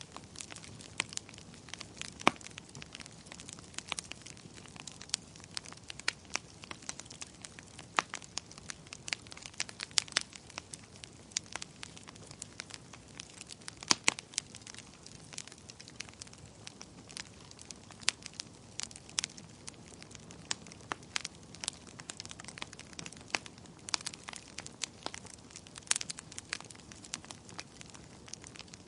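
Fire crackling: irregular sharp pops and snaps of varying strength over a low hiss, with the loudest pops about two seconds in and around the middle.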